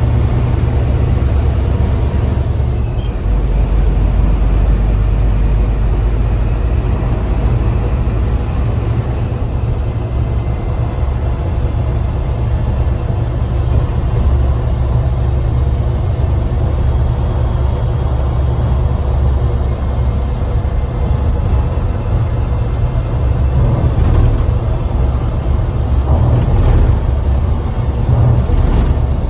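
Mercedes-Benz bus engine running under way, heard from inside the driver's cabin as a steady deep drone over road noise.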